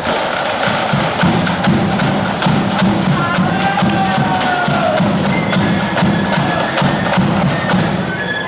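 Marching flute band playing: rapid snare drumming and a bass drum beat, with flutes carrying a melody over them.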